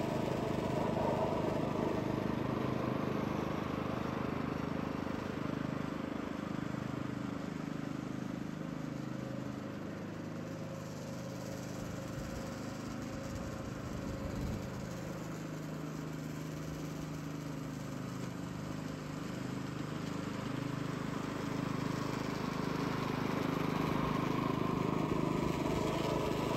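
Petrol-engine reel mower running steadily while mowing. Its engine note drifts slightly up and down in pitch and grows a little louder near the end.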